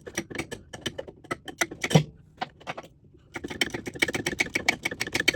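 Socket ratchet wrench clicking rapidly as a bolt is turned, in two quick runs with a short pause about three seconds in.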